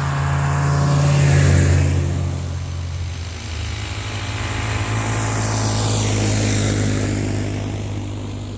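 Snowmobile engine running under way, getting louder to a peak about a second and a half in, easing, swelling again around six to seven seconds in, then fading away near the end.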